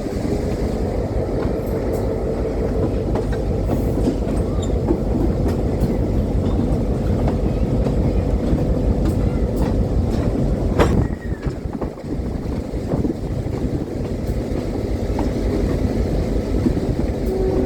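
Train rolling on the rails: a steady low rumble with wheel clatter and a faint steady tone, and one sharp knock about 11 seconds in.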